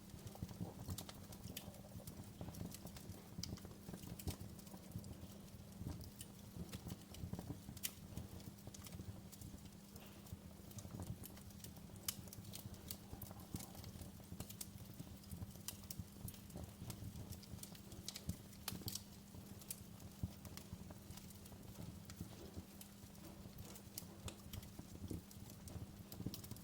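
Wood fire in a fireplace crackling, with frequent irregular pops and snaps over a low steady rumble.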